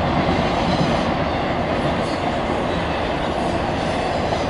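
Double-stack intermodal cars of a Norfolk Southern freight train rolling across a steel girder bridge: a steady rumble of wheels on rail.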